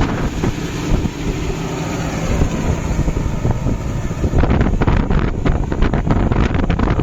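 Kubota MU 5502 tractor's four-cylinder diesel engine running steadily under load while plowing. A rapid crackle of sharp clicks joins in about four seconds in.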